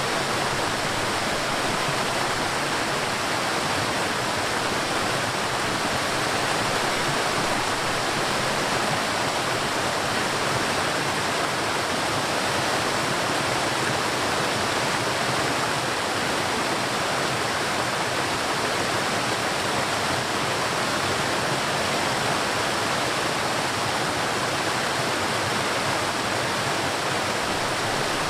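River water flowing over rocks, a steady rushing and splashing with no change in level.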